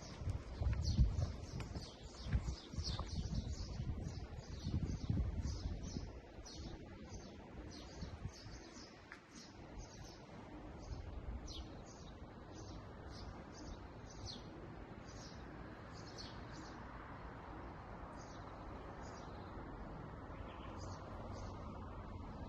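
A bird chirping, short high calls repeated about twice a second, with low thuds and rumble in the first few seconds and a faint steady hiss later on.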